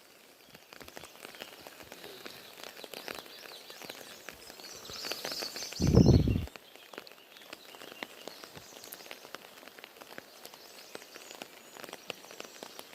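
Light rain falling, a faint steady patter scattered with small drop ticks. About six seconds in there is a single louder, low burst lasting about half a second.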